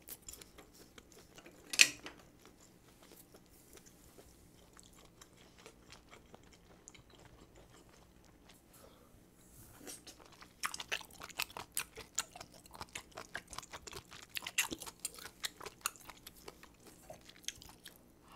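Close-miked chewing of butter-grilled abalone and spicy stir-fried octopus: quiet moist mouth sounds with one sharp click about two seconds in, then from about halfway a dense run of quick, wet chewing clicks.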